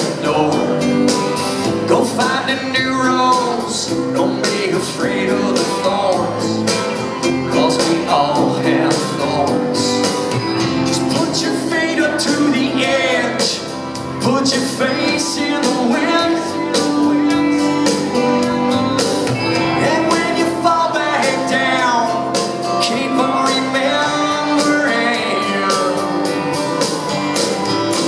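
Live country-rock band playing the song, with guitars, drums and singing.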